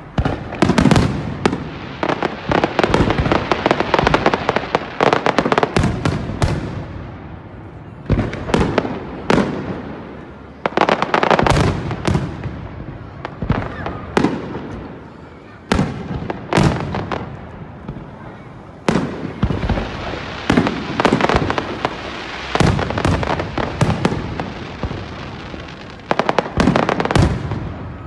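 Fireworks display: aerial shells bursting in rapid volleys of loud bangs, with a few brief lulls between the volleys.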